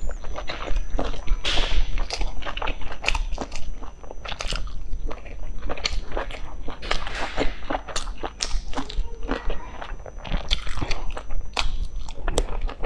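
Close-miked chewing and mouth sounds of someone eating steamed stuffed buns: a dense, irregular run of short clicks and smacks, several a second.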